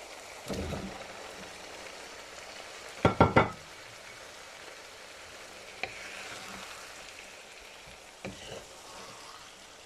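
Chicken keema sizzling steadily in a nonstick frying pan as chopped vegetables (cauliflower, potatoes, green beans, capsicum) are tipped in. There is a soft thud about half a second in and a quick run of three loud knocks about three seconds in. Near the end, a wooden spatula stirring gives a few light clicks.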